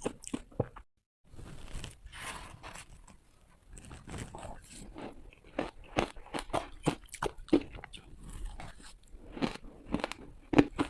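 Close-miked crunching of ice as it is bitten and chewed, in quick irregular crunches, cut off by a brief moment of dead silence about a second in.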